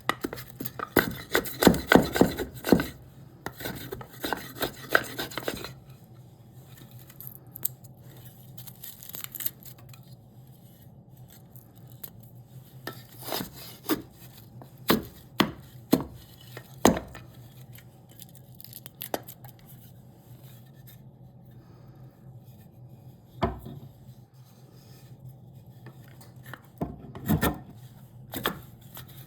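Hand tools cutting into a block of cherry wood: a quick run of sharp knocks in the first few seconds, then scraping, then single knocks every second or few.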